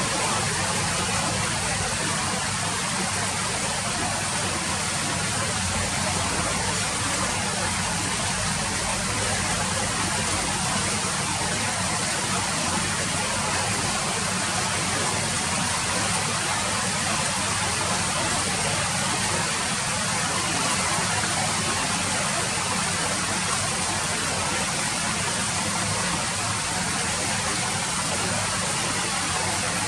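Steady rain falling, an even hiss of drops with no breaks or changes in level.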